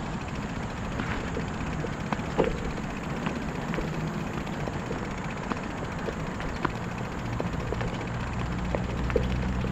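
A steady low engine drone that grows louder from about eight seconds in, with scattered light clicks and ticks over it.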